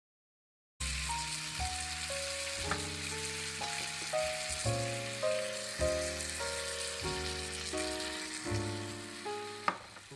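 Food sizzling in a miniature clay pot over a tiny burner, starting about a second in, under a gentle melody of background music. A single sharp click comes near the end.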